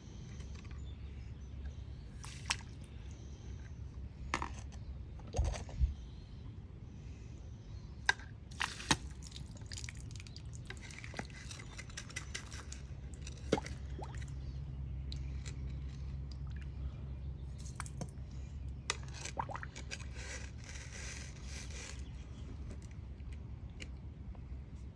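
Water dripping and sloshing in a small homemade pipe toilet, with scattered clicks and knocks from handling it, over a steady low hum.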